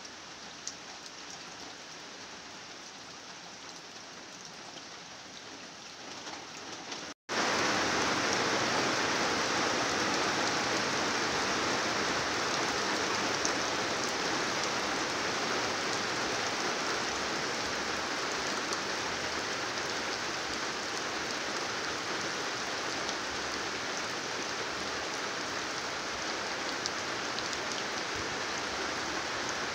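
Heavy rain falling steadily, an even hiss of drops with occasional single drips standing out. After an abrupt cut about seven seconds in, the rain is much louder.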